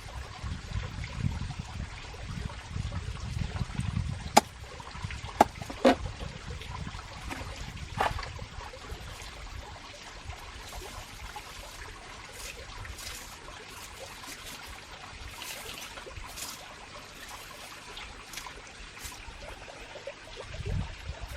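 Water trickling steadily, with a few sharp clicks in the first half.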